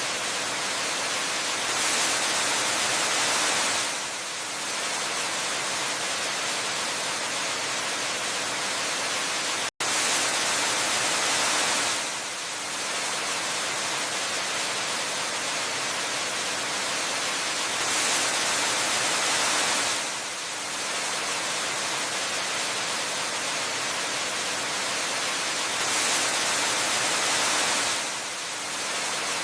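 Steady rushing water of a waterfall, a hiss-like wash with little low rumble, swelling slightly louder for about two seconds roughly every eight seconds. A split-second dropout to silence comes about ten seconds in.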